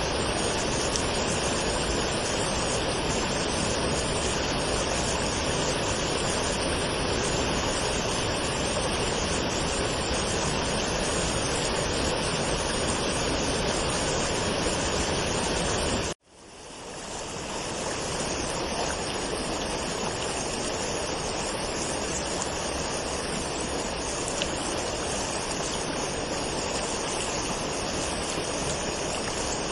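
Waterfall: steady rushing water. About halfway through, it cuts out abruptly and fades back in over a second or two.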